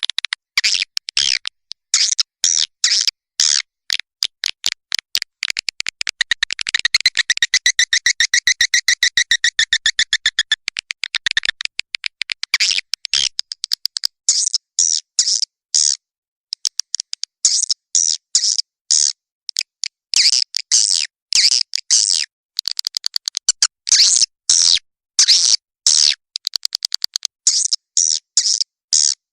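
Swiftlet lure call recording played back: rapid runs of high twittering chirps, with a dense buzzing trill about a quarter of the way in and a brief pause around the middle.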